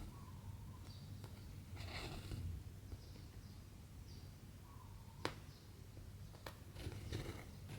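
Embroidery thread pulled through cross-stitch fabric in soft swishing draws, about two seconds in and again near the end. Two sharp clicks come in between, and there are faint short chirps in the background.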